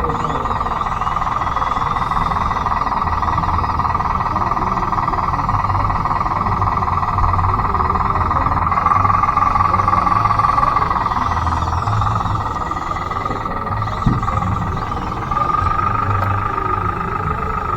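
Steady electric gear-motor whine of a radio-controlled bulldozer, a converted Bruder D5, driving on its tracks with a low rumble beneath. It grows louder about halfway through and again near the end, with a single sharp knock partway through.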